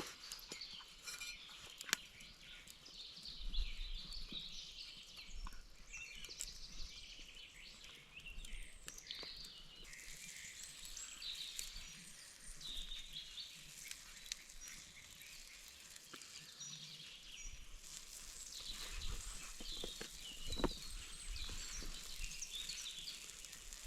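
Birds chirping and twittering, with scattered sharp clicks.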